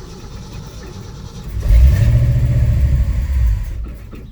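Ford 360 FE big-block V8 running in a 1968 F100, briefly revved about a second and a half in for roughly two seconds before dropping back, while its ignition timing is being set: it struggles to idle, which the owner takes to mean the timing needs retarding further.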